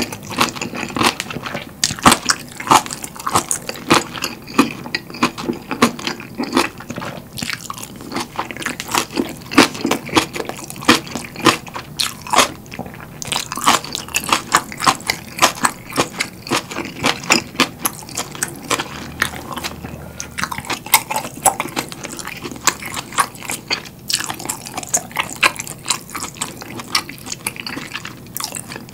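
Close-miked chewing of kimchi: rapid, crisp, wet crunches and mouth sounds, many per second.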